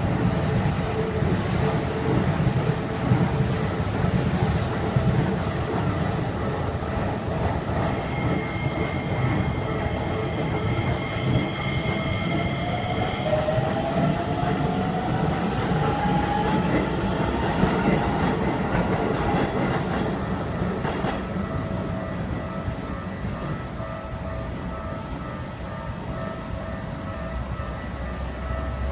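Electric commuter train running over a level crossing, its wheels rumbling and clattering on the rails. A motor whine climbs in pitch in the middle as the train gathers speed, and the running noise eases off toward the end.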